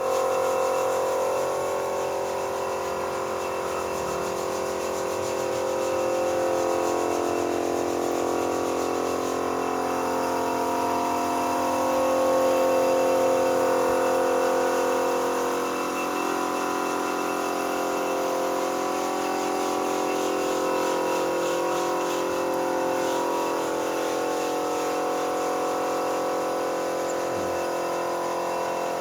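A power tool or workshop machine running steadily, a many-toned hum that wavers slightly in pitch and swells a little about twelve seconds in.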